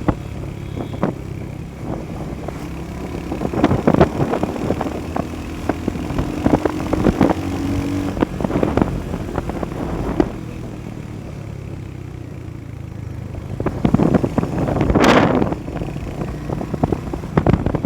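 Motorcycle engine running steadily, with scattered knocks and rattles. A louder rushing swell comes about fourteen to fifteen seconds in.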